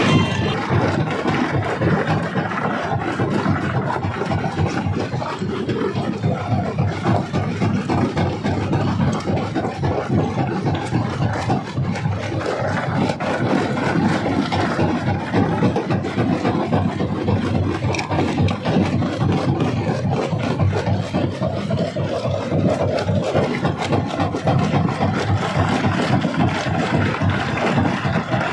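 Stone crusher running under load: a steady machine drone with a dense, continual clatter of rock cracking and knocking as it is crushed.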